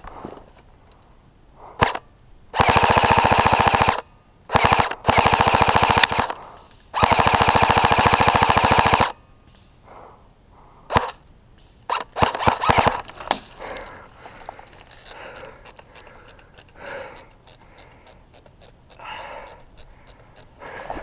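Airsoft rifle firing on full auto: four loud bursts of rapid shots, the longest about two seconds, followed by a few single shots and short bursts.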